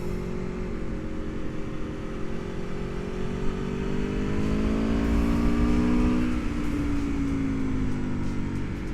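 Aprilia Tuono V4 1100's 65-degree V4 engine running under way, its pitch climbing as the revs rise about halfway through, then easing back down near the end.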